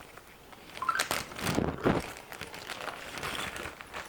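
Handling noises from a trapdoor Springfield rifle being picked up and moved: a few knocks and clicks with some rustling, loudest about one to two seconds in.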